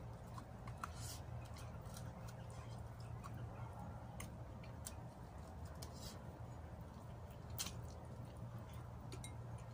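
Chewing and wet mouth smacks of a person eating chicken adobo by hand, as scattered short clicks over a steady low hum.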